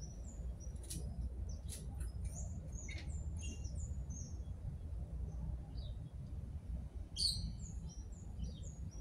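Small birds chirping: short, high, falling chirps repeated irregularly, a brief louder flurry about seven seconds in, over a low steady background rumble.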